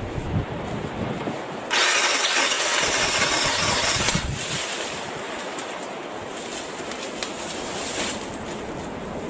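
Battery-powered saw running in a short burst of about two and a half seconds, starting a couple of seconds in, over steady outdoor background noise.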